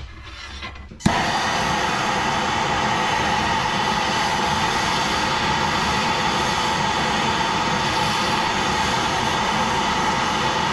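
Handheld gas torch lit with a click about a second in, then burning with a steady hiss as it heats a gray cast metal piece to test whether it is zinc, which melts under the flame, or cast aluminum.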